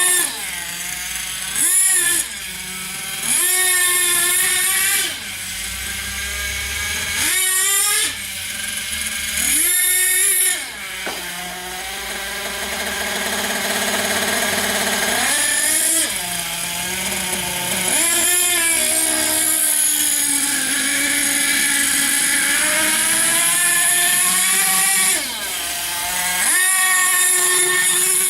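Thunder Tiger MTA4 radio-controlled monster truck's small nitro engine revving up and down, high-pitched. Full-throttle bursts of one to several seconds, including one long run in the second half, alternate with lower running between them.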